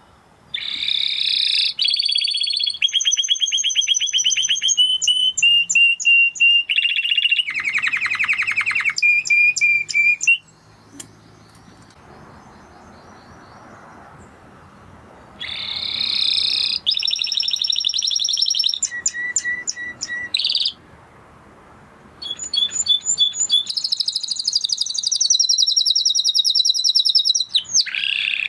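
Spanish Timbrado canary singing in three long phrases with short pauses between them, each phrase a string of rapid trills, every trill held at one steady pitch before the song switches to another.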